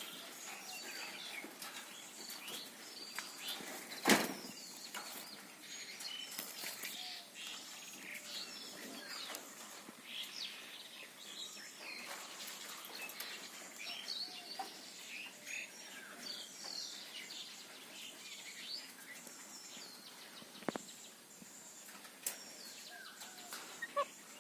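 Birds chirping in many short, high calls throughout, with one loud sharp knock about four seconds in and a couple of fainter clicks near the end.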